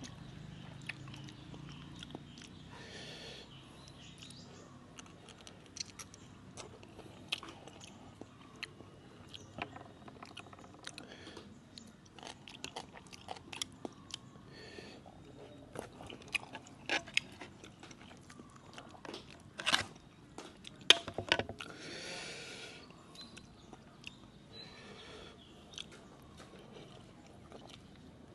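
A person chewing and crunching spicy seafood papaya salad (som tam) at close range, with irregular sharp wet clicks and smacks, the loudest a little after the middle.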